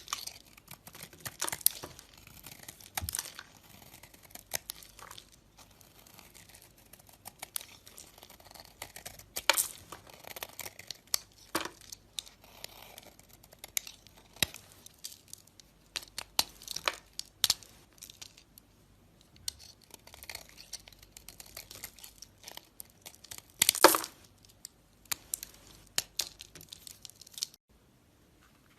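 Blade cutting and scraping through a dry bar of soap, making irregular crisp crackles and snaps. The loudest crackling comes about 24 seconds in, and the sound stops shortly before the end.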